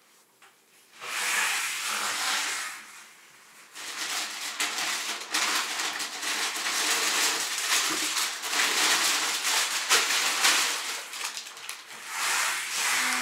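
Plastic bags and food packaging rustling and crinkling as groceries are taken out and handled. It starts about a second in, pauses briefly, then goes on almost without a break.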